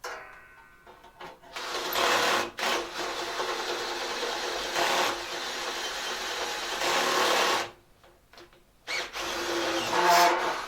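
Handheld power tool running in two bursts, a long one of about six seconds and then a shorter one of about a second and a half.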